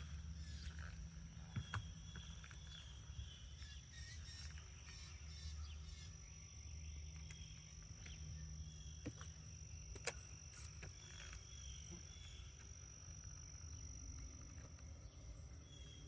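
Insects in a summer meadow giving a faint, steady, high-pitched trill, with a low hum underneath and a few light clicks.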